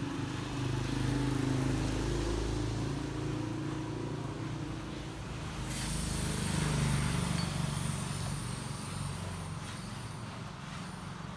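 Motorbike and road traffic running past, a low engine hum that swells and fades as vehicles go by, with a steady hiss coming in about halfway through.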